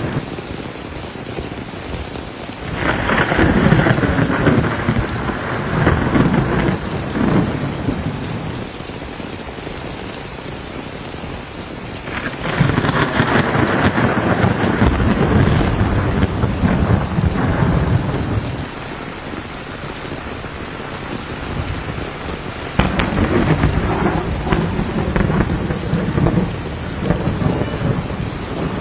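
Steady rain with three long rolls of thunder, each lasting about five or six seconds and coming roughly ten seconds apart.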